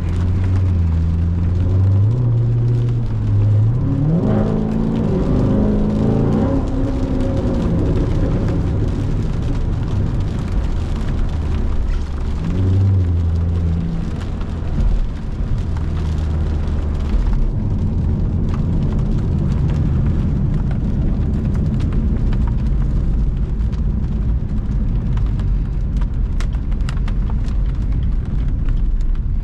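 Chevrolet C7 Corvette's 6.2-litre V8 running at low revs, then revving up for a few seconds about four seconds in, its note climbing steeply, before settling back to a steady cruise. From about the middle on, tyre and road noise grows into a steady hiss.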